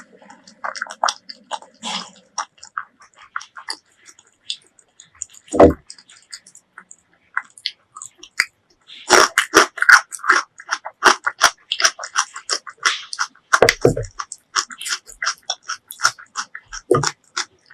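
Mouth sounds of eating braised pork leg: chewing and biting clicks, sparse at first, then a dense run of rapid chewing clicks from about halfway, with three deeper thumps along the way.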